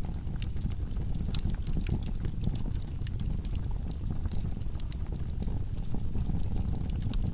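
Wood logs burning in a fireplace: a steady low rumble of flames with frequent small, irregular crackles and pops.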